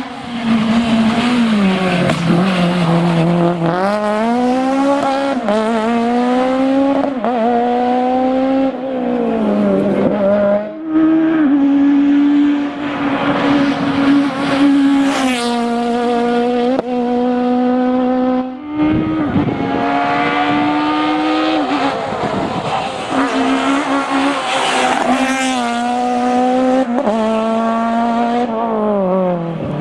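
Citroën Saxo Kit Car rally car's engine at high revs. Its note repeatedly climbs and then drops sharply as it goes through the gears, easing off several times, with short breaks about 11 and 19 seconds in.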